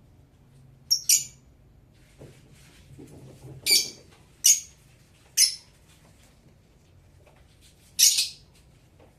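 Blue Fischer's lovebird giving five short, shrill, high-pitched chirps at uneven intervals. The last one, about eight seconds in, is the longest.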